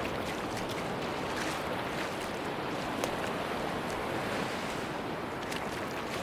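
Sea waves washing onto a beach: a steady rush of surf with small, crisp crackles of the foam.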